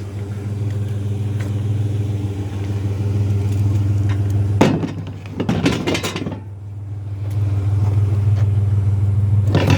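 Truck engine idling steadily, with short bursts of noise about five seconds in and again near the end.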